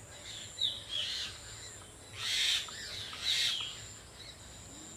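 Birds calling: short chirps falling in pitch about half a second and a second in, then two louder rasping calls around two and three seconds in.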